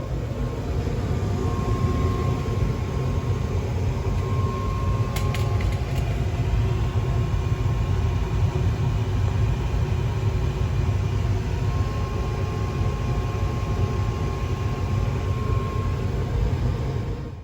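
GMC gas furnace running: a steady low rumble of the burner and blower, with a faint tone that comes and goes and a few light ticks about five to six seconds in.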